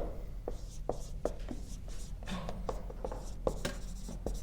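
Handwriting on a board: irregular sharp taps of the writing tool with faint scratching strokes between them, over a low steady hum.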